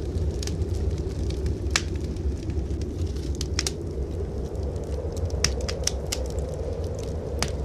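Wood fire crackling in a fireplace, with irregular sharp pops, the loudest about two seconds in and near the end, over a steady low rumble.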